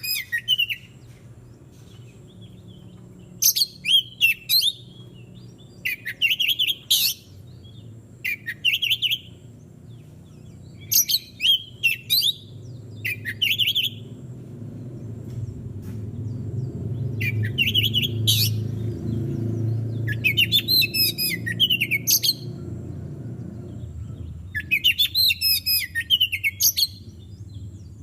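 Oriental magpie-robin (kacer) singing in short, varied, whistled phrases a second or two long, separated by pauses of a few seconds. A low rumble swells and fades under the song through the middle.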